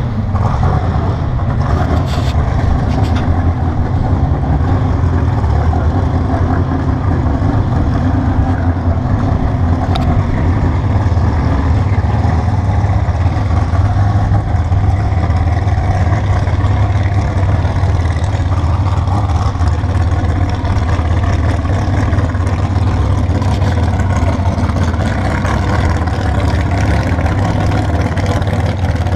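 Drag car's engine running at a steady low rumble, a little louder from about halfway through.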